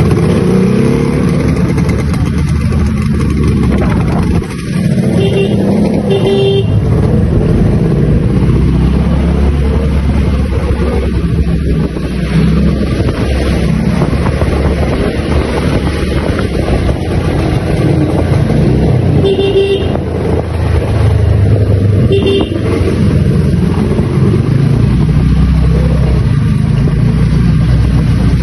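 Yamaha RD 350 two-stroke parallel-twin motorcycle engine running, its exhaust note loud and continuous. A vehicle horn toots briefly four times, twice close together about five to six seconds in and twice more later on.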